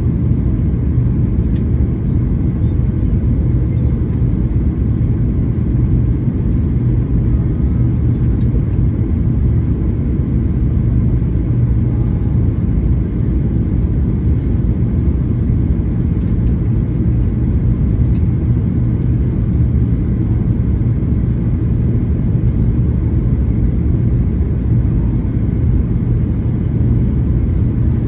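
Steady low drone of an airliner's engines and airflow in flight, heard from inside the cabin, with a few faint ticks.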